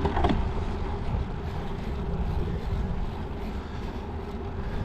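Wind buffeting the microphone on a moving bicycle, a steady low rushing noise.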